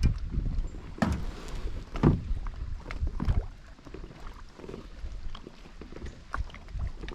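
Knocks and bumps on a kayak, a few sharp ones in the first three and a half seconds and a lighter one later, over a low wind rumble on the microphone.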